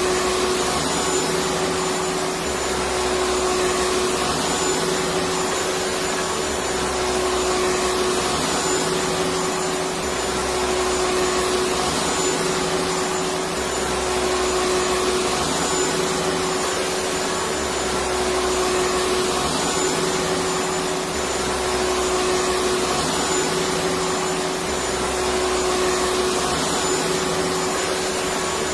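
Electric vacuum cleaner running continuously as steady white noise for lulling a baby to sleep: an even rushing hiss with a steady motor hum, and a faint low rumble that swells and fades every few seconds.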